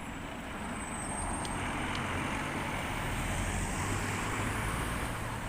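Busy city road traffic: buses and cars passing, with engine rumble and tyre noise that swells a little in the middle.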